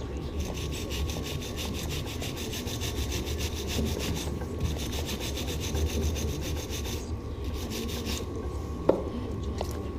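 Fast back-and-forth rubbing strokes, many to the second, scouring surface rust off small bicycle bolts and fitments; the strokes break off briefly near the middle and stop a few seconds before the end. A single sharp click follows near the end.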